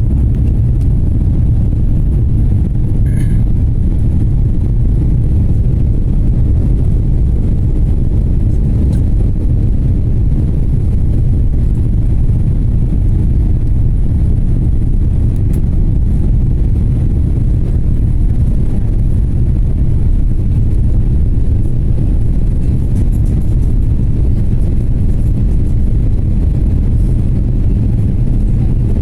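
Steady low rumble of an airliner's engines and airflow heard inside the passenger cabin in flight.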